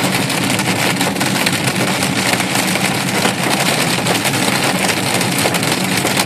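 Heavy rain pelting a car's roof and windows, a dense steady patter of countless drops, over a low steady hum from the car's engine or fan.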